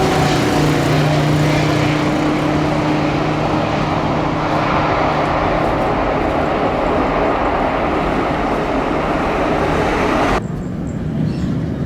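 Airliner engines running loud and close as an aircraft passes, a steady rushing noise with a low hum; it cuts off abruptly about ten seconds in, leaving a quieter background.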